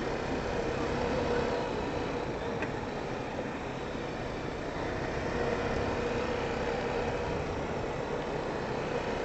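ATV (four-wheeler) engine running steadily with an even, unchanging drone.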